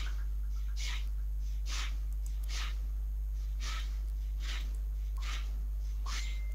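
Steady low electrical hum in the recording, with short breathy hissing puffs repeating a little faster than once a second.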